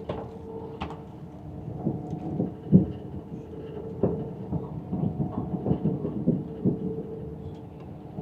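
Cabin sound of a moving train: a steady running hum with irregular low thuds and knocks from the wheels on the track, more frequent from about two seconds in.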